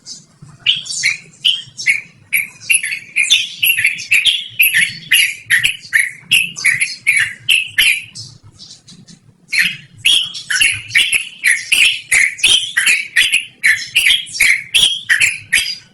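Yellow-vented bulbul (trucukan) singing a long, fast run of loud, clear repeated notes, about three or four a second. It breaks off for a moment just past the middle, then starts up again.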